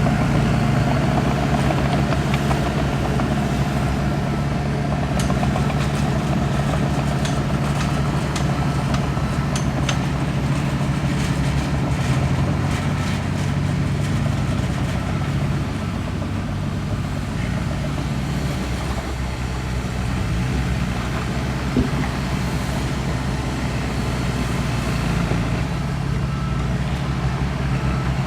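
Heavy diesel engine of an earthmoving machine running steadily under load. It eases off somewhat in the middle and picks up again near the end, with faint light clicks for several seconds in the first half.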